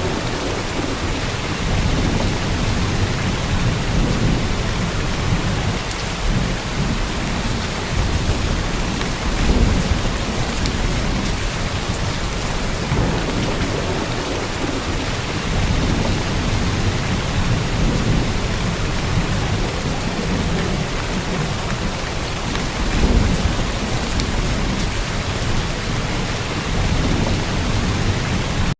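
Heavy rain falling steadily, with a deep rumble of thunder underneath that swells twice, about a third of the way in and again near the end.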